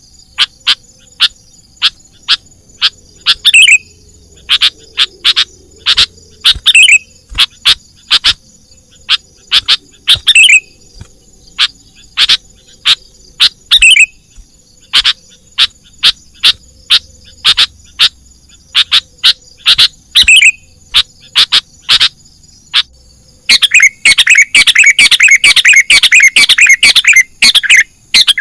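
Sooty-headed bulbul (kutilang) calling: short, sharp notes repeated every second or so, some ending in a falling whistle, then a dense chattering run of calls near the end. A steady high insect trill sounds underneath.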